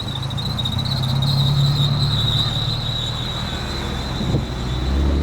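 A car engine running as a car drives out, swelling over the first couple of seconds, with a steady high-pitched whine along with it; a deeper rumble from another engine comes in near the end.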